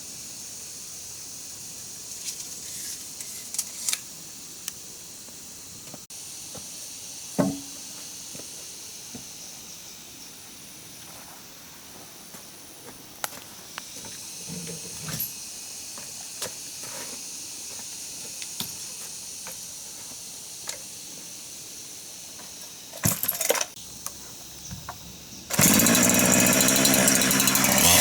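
Scattered light knocks and clicks over a steady high hiss, then a gas chainsaw starts up about three-quarters of the way through and runs loudly, its pitch dropping near the end.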